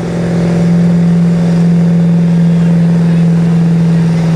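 Truck engine held at steady high revs under full load, pulling the weight sled, with a constant, unwavering pitch.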